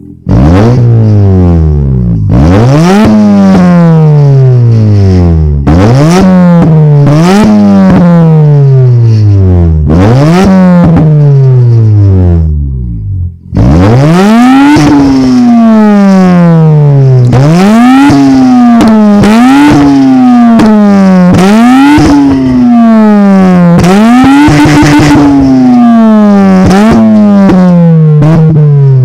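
2009 Mazda RX-8 R3's Renesis twin-rotor rotary engine, exhaust running with the muffler deleted but the stock catalytic converter and resonator kept, revved from idle about a dozen times. Each rev climbs fast and falls back slowly, and one is held briefly near the end.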